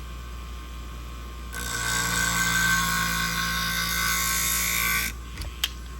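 Twice As Sharp sharpening machine running with a low hum; about a second and a half in, a pinking-shear blade is drawn across the grinding wheel for a light pass, an even metallic grinding hiss with ringing tones that stops abruptly about five seconds in. Two light clicks follow.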